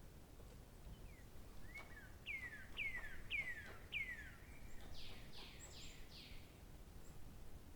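A songbird singing one phrase: four clear notes that each slide down in pitch, about two a second, then four broader, higher notes in quick succession, over a faint steady outdoor background.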